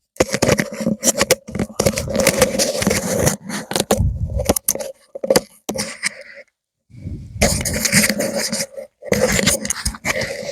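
Firewood burning in a campfire, crackling and popping in rapid, irregular snaps.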